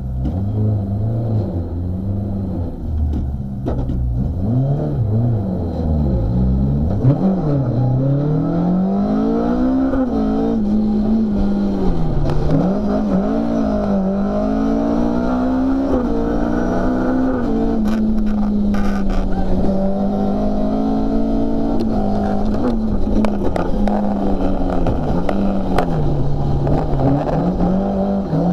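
Ford Escort RS1800's Cosworth BDA twin-cam four-cylinder engine, heard from inside the cabin, being driven hard: the revs climb and fall away again and again as the driver accelerates, lifts off and changes gear.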